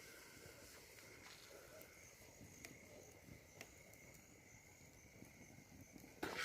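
Near silence: faint outdoor ambience with a few soft clicks, and a louder rustling noise near the end.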